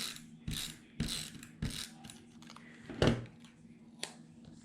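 Paper pieces being handled and pressed down on a craft table: a string of short rustles and clicks, the loudest about three seconds in and a sharp click about a second later.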